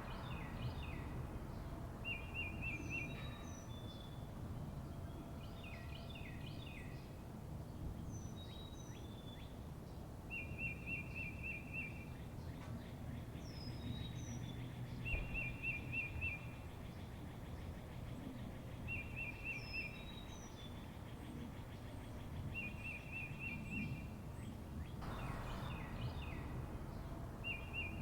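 Birds calling: a rapid trill about a second long repeats every few seconds, mixed with short high whistled notes that drop in pitch and scattered chirps, over a steady low background rumble.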